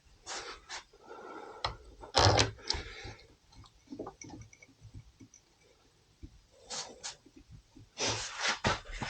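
Irregular metal knocks, clinks and scrapes of hand tools and parts being handled while a greased bolt and the front brake caliper are refitted. The loudest knock comes about two seconds in, and a cluster of knocks comes near the end.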